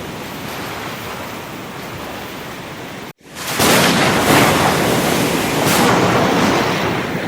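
Ocean surf washing steadily. About three seconds in the sound cuts out for an instant, then comes back louder, with waves surging and crashing.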